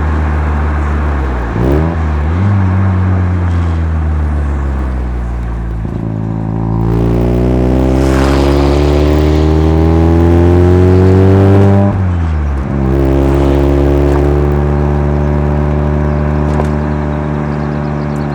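Mazda RX-7 FC3S two-rotor rotary engine heard through a Knight Sports Legal Sports aftermarket muffler, accelerating through the gears: the revs climb, fall sharply at upshifts about 2, 6 and 12 seconds in, then hold steady.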